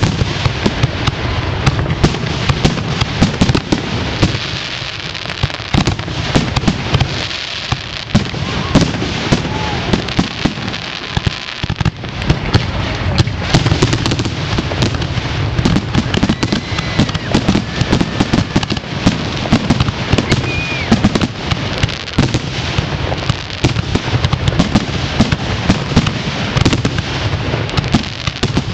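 Aerial fireworks bursting in a dense, continuous barrage: many sharp bangs and crackles every second over a steady low rumble, with no let-up.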